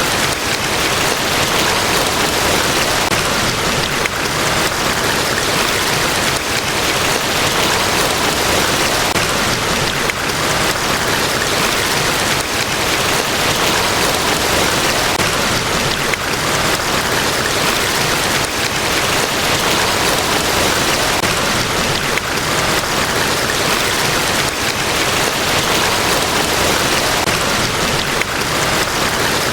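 Water of a large waterfall, Niagara Falls, rushing in a steady, even hiss with no breaks or changes.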